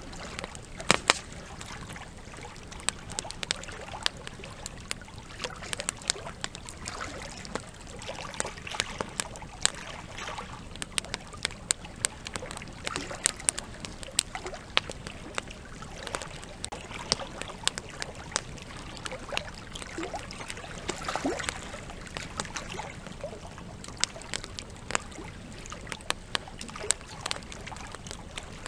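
Wood campfire crackling with frequent irregular sharp pops, over the steady rush of a flowing river.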